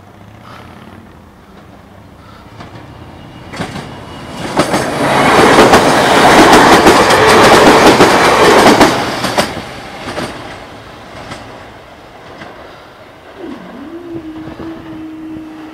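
A Merseyrail electric multiple unit passes close by. A rush of wheel and track noise builds, peaks for about four seconds with the clickety-clack of wheels over rail joints, then fades as the train goes away.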